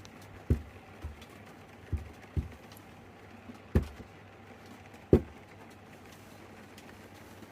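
Six dull thumps at irregular intervals over a steady low hum, the loudest about five seconds in.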